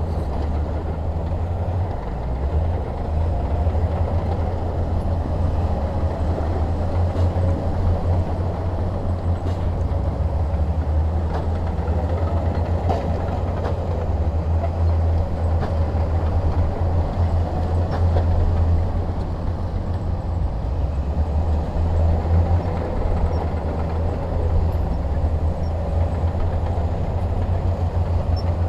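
Heavy diesel machinery engine running steadily with a deep, pulsing low rumble, with a few faint clanks.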